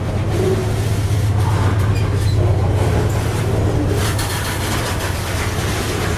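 Diesel-electric freight locomotive running with a steady, loud low drone, with more rattling, rolling noise joining in from about four seconds in.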